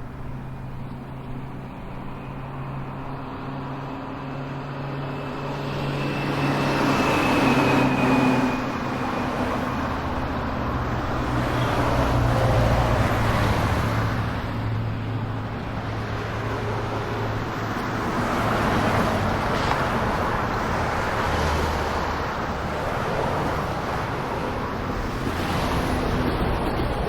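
Road and traffic noise from a Tesla Model 3 driving in traffic: steady tyre and road noise that swells several times as vehicles pass, over a low steady hum.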